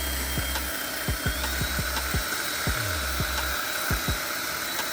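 Power drill running with a steady high whine that steps up in pitch about a second and a half in, over background music with a deep drum beat.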